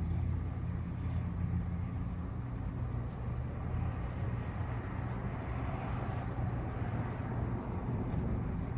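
Steady low drone of an idling vehicle engine, with a constant rumble and no change in speed.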